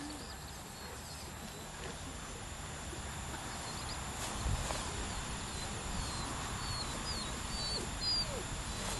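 Open-air background noise with a low rumble, and faint short high chirps of small birds in the second half.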